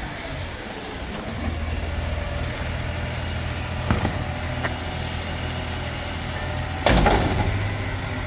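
Garbage truck engine running steadily, its hum rising about a second and a half in, with two light knocks and then one loud bang about seven seconds in.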